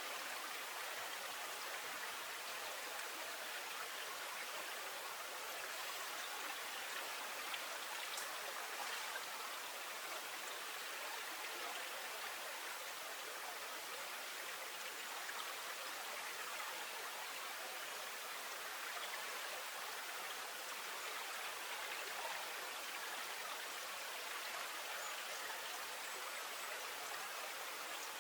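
Steady, even rush of flowing water, like a stream, with no change throughout.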